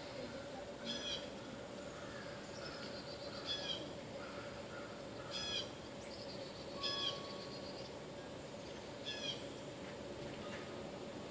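A bird gives short calls every two seconds or so, with fainter chirping between them, over a steady low hum.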